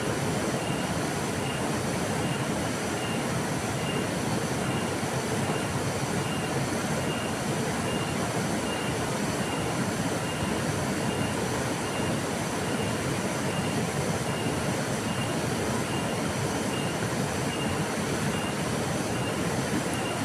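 A river flowing steadily, an even rushing of water with no change in level. A faint high chirp repeats at a steady pace of roughly one every two-thirds of a second.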